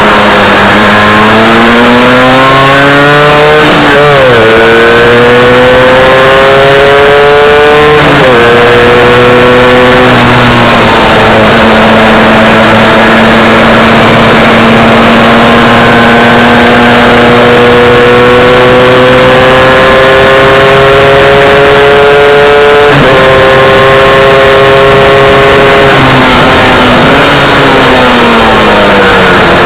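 MZ 250 two-stroke single-cylinder race engine heard from on board the bike under hard acceleration, revs climbing and dropping sharply at upshifts about 4 and 8 seconds in and again near 23 seconds, with a long slow climb in between. Near the end the revs fall as the bike slows, then pick up again. Wind rush on the microphone runs underneath.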